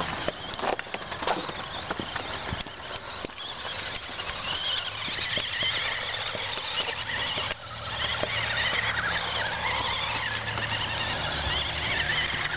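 Small electric motor of a toy RC truck whining with a wavering pitch as it spins donuts, over a steady scrubbing noise, with clicks and rattles in the first couple of seconds.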